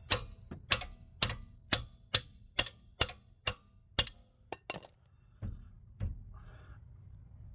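Sharp metallic clicks, a little over two a second for about four seconds, then a few irregular ones, from a hand tool working the very tight 18 mm rear brake caliper bracket bolts.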